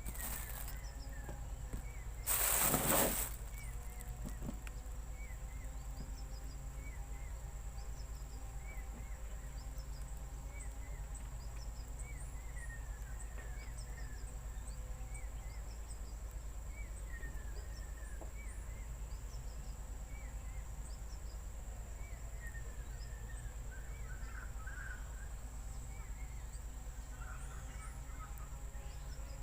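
Outdoor ambience: a steady high insect drone, with many short falling chirps from small animals. A brief loud rustling noise about two to three seconds in.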